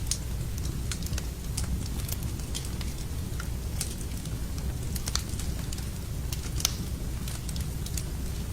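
Wood fire burning in a fireplace, crackling and popping irregularly over a steady low rumble of flame, with one louder pop near the end.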